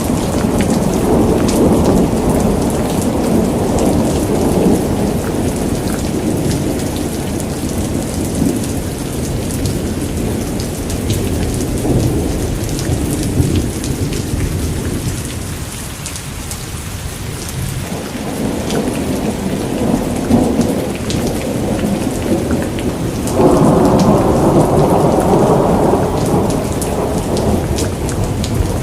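Steady rain with fine drop patter and rolling thunder. The low rumble swells and fades, dies down a little past halfway, and a new roll starts abruptly near the end.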